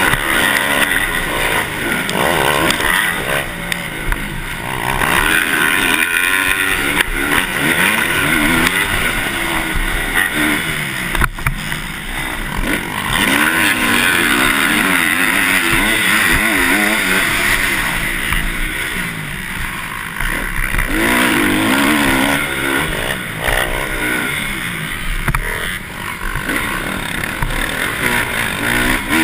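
Motocross dirt bike engines revving, their pitch rising and falling over and over as the bikes accelerate, shift and back off.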